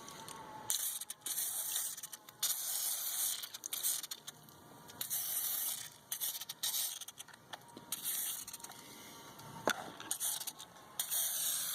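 Boeshield T9 aerosol can spraying: hissing in a series of bursts, each a second or so long, with short pauses between them.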